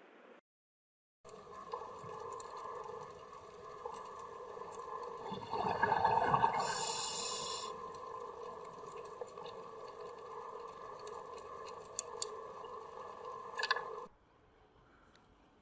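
A steady mechanical hum with several overtones, with a louder rush of noise about six to seven seconds in and a couple of sharp ticks near the end.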